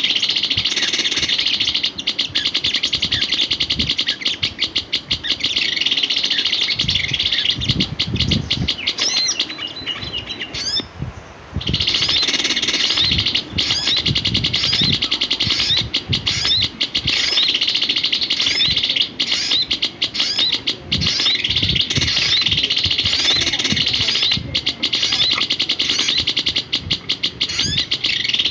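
Songbird chirping in a fast, unbroken stream of high notes. It stops for about a second and a half around the middle, then carries on. Low knocks come through here and there.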